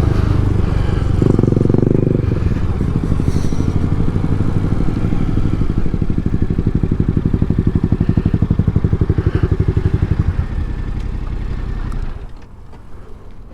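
Yamaha MT-07 parallel-twin motorcycle engine running at low revs with an even, lumpy exhaust pulse. The sound drops off sharply about twelve seconds in, as the engine is shut off.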